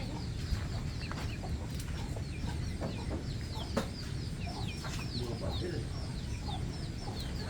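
Many young chicks peeping continuously: a dense chorus of short, high, falling peeps over steady low background noise, with a couple of sharp knocks.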